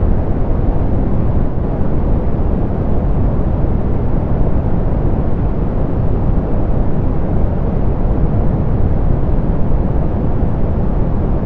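Steady soft pink noise, an even hiss weighted toward the low end and muffled at the top, with no change or events.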